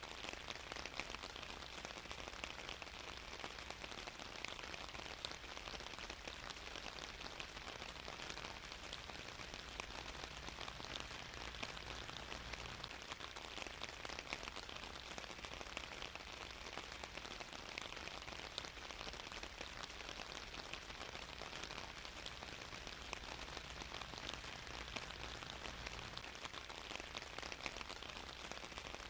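Steady rain falling on a surface, an even hiss dotted with many fine drop ticks.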